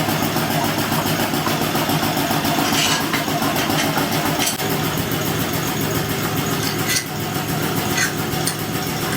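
Steady hum of machine-shop machinery running, with a few light metallic clicks as the cylinder boring bar is clamped in place over the bore.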